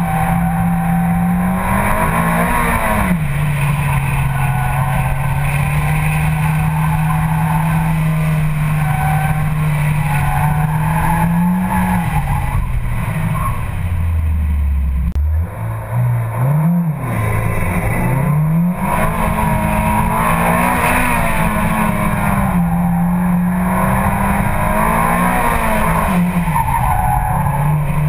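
Mitsubishi Lancer Evolution X's turbocharged four-cylinder engine working hard through an autocross course, its revs rising and falling through the turns. About halfway through, the revs drop low and the sound dips briefly before climbing again.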